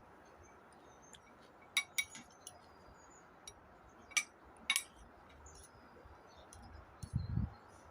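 Eating utensils clinking against dishes during a meal: a few sharp clinks about two, four and five seconds in, then a dull low thud near the end.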